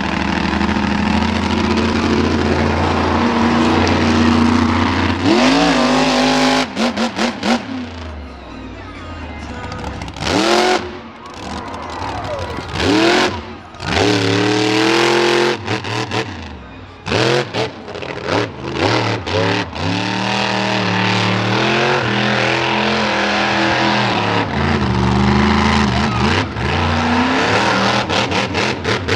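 Monster truck engine at high revs: held wide open at first, then a run of sharp throttle blips whose pitch sweeps up and cuts off again and again, before it settles back to steady high revs near the end.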